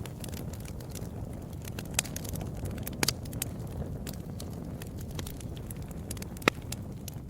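Wood fire crackling: a steady low rumble of flames under many small snaps, with a few sharper pops, the loudest about six and a half seconds in.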